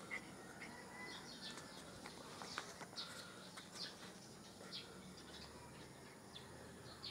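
Faint birds chirping in the background: scattered short, high chirps, one every second or so.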